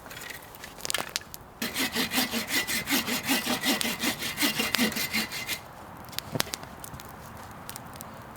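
Hand saw cutting through a piece of firewood: about four seconds of quick, even back-and-forth strokes that then stop. A few sharp snaps and clicks come before and after.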